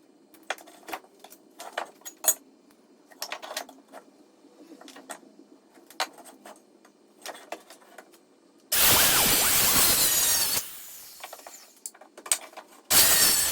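Scattered knocks and clicks of wood being handled, then about nine seconds in a power saw cuts through wood for about two seconds and winds down. A second cut starts near the end.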